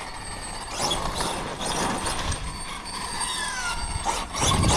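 Losi 5ive TE 3.0 electric 1/5-scale truck driving hard on pavement: drivetrain whine and tyre noise, louder near the end. The center differential is unloading, which the owner puts down to its 500k fluid being too thin.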